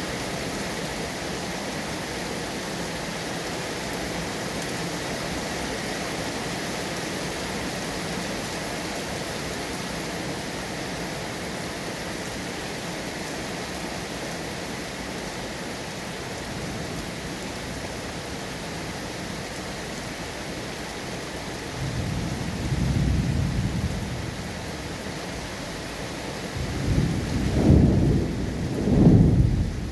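Steady rain falling, an even hiss. About two-thirds of the way through, a low rumble of thunder swells and fades, and near the end two louder rolls of thunder follow close together.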